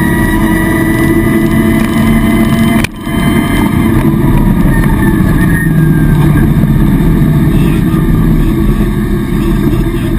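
Rally car engine running hard at high revs, heard from inside the cabin, with a sharp, brief dip in the engine sound about three seconds in.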